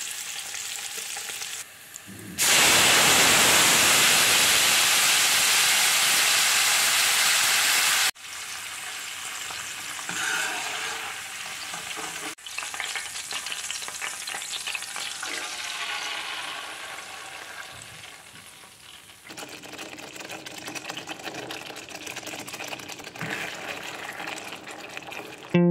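Guanciale frying in oil in a stainless steel pan, with a much louder steady hiss from about two seconds in until a cut at about eight seconds. After that come quieter sizzling and crackling, then tomato sauce cooking while a wooden spoon stirs it.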